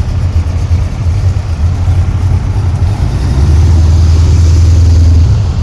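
A car's engine and exhaust running with a low, loud rumble. It settles into a steadier, louder drone about three and a half seconds in, then eases just before the end.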